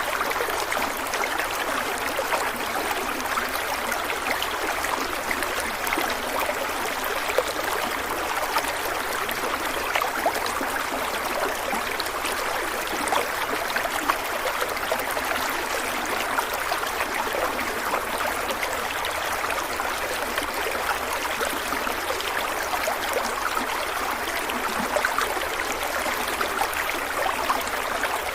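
A stream of water running and splashing over rocks, a steady rush with fine bubbling and trickling.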